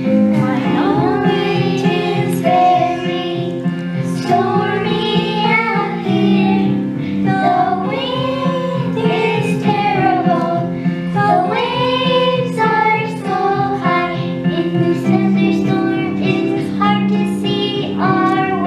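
Children singing a number from a children's opera over a recorded instrumental accompaniment track, with solo and group vocal lines rising and falling over sustained chords.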